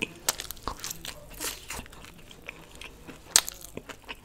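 Close-miked chewing of a mouthful of food, with irregular crisp crunches and wet clicks, the sharpest a little past three seconds in.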